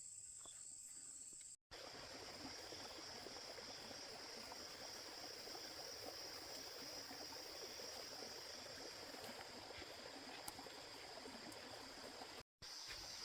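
Faint forest ambience: a steady high-pitched insect chorus over a soft even hiss. It breaks off briefly twice, about a second and a half in and near the end.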